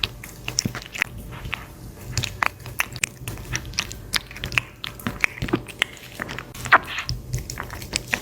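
Close-up chewing and crunching: irregular crisp clicks and crackles, several a second, as an animal eats.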